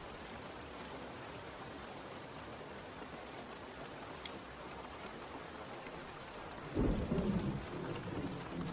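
Steady rain falling, with a low roll of thunder that breaks in suddenly near the end and keeps rumbling.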